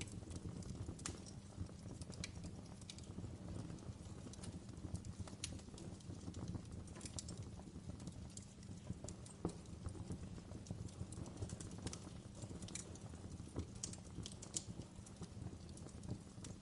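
Wood fire crackling in a fireplace: a steady low rumble from the flames under irregular sharp crackles and pops, with a few louder snaps scattered through.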